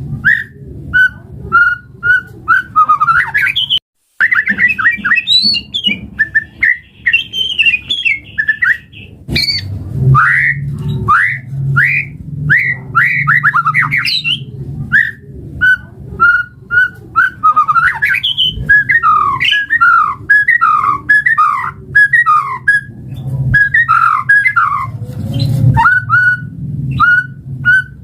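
White-rumped shama (murai batu) singing loudly and without pause: fast runs of falling whistled notes, strings of repeated single notes and squawking chatter, over a low steady hum. The song drops out briefly a little before four seconds in.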